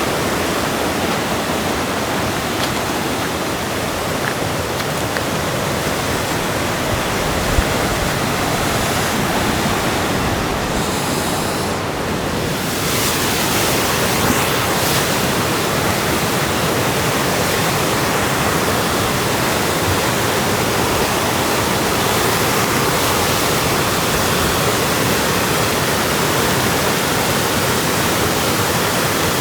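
River water rushing, a steady, loud hiss that holds even throughout, with a brief dip in the high hiss just before the middle.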